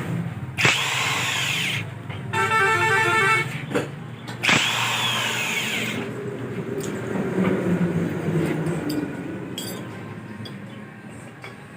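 A vehicle horn honking in a rapid pulsing pattern, between two loud hissing bursts that each last over a second. Quieter mixed noise follows and fades toward the end.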